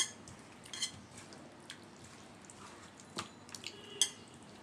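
Several light clinks of a utensil against a bowl, about five spread through, with faint wet squishing between them as the chicken is worked into its tandoori marinade.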